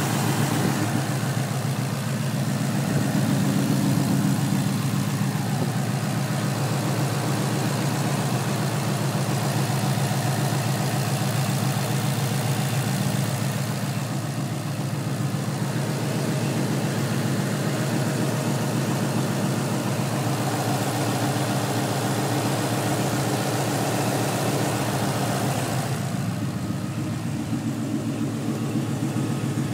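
Ford Coyote 5.0-litre DOHC V8, swapped into a 1993 coupe, idling steadily.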